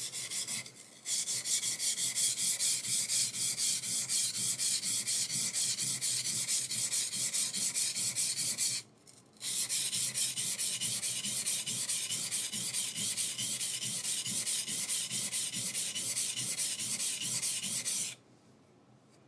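High-speed steel skiving knife being sharpened on a water stone: quick back-and-forth scraping strokes of the blade on the wet stone, about four a second. The strokes break off briefly about nine seconds in and stop about eighteen seconds in.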